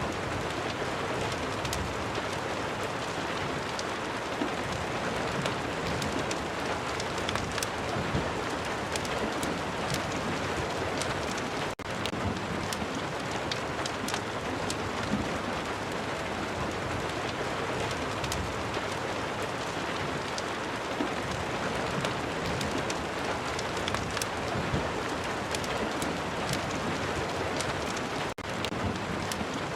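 Rain and fireplace ambience: steady rain with many scattered sharp crackles through it. The sound dips out very briefly twice, once about twelve seconds in and once near the end.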